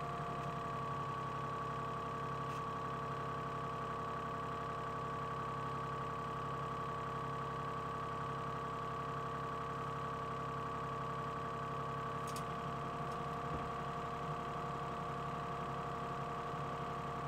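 Excavator engine running at a steady speed, a constant drone with a few faint clicks.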